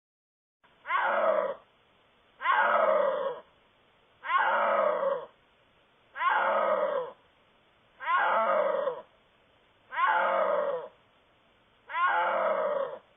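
A big cat calling in a regular series: seven roaring calls about two seconds apart, each about a second long and falling in pitch.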